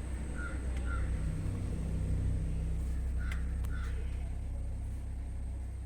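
Steady low rumble of a Maruti Suzuki XL6 idling, with two pairs of short faint calls about a second in and again about three seconds in.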